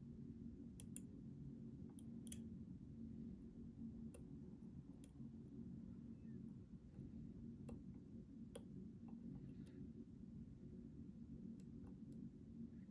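Faint, irregular clicks of a lock pick and tension wrench working the pins inside a Schlage Primus Everest lock cylinder, a click every second or so, over a steady low hum.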